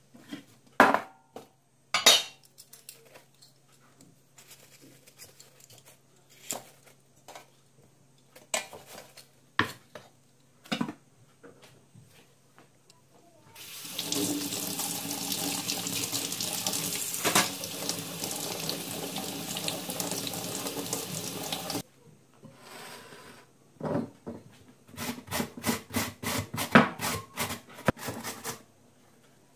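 Kitchen tap running for about eight seconds in the middle, between scattered clinks and knocks of dishes and utensils; near the end a quick run of sharp knocks, several a second.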